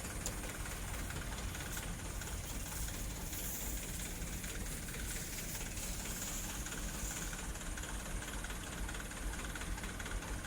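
Dump truck engine running steadily, a low rumble under a constant hiss.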